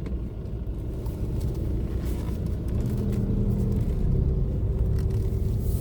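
Car engine and road rumble heard from inside the cabin while driving slowly. About three seconds in, the engine hum becomes clearer and steadier.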